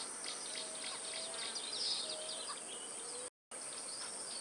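Outdoor nature ambience: a steady high-pitched insect drone with many short bird chirps scattered through it. The sound cuts out completely for a moment a little past three seconds in, then resumes.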